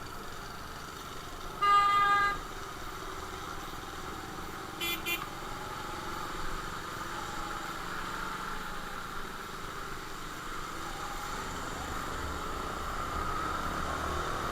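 A vehicle horn honks once, loud and a little under a second long, about two seconds in, over the steady drone of riding on the road. A brief high chirp follows about three seconds later.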